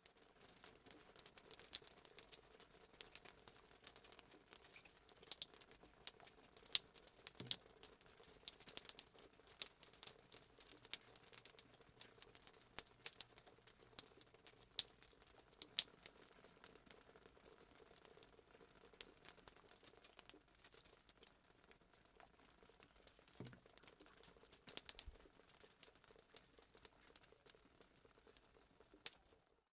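Fireplace sound effect: a wood fire crackling, with frequent sharp pops and snaps over a soft steady background.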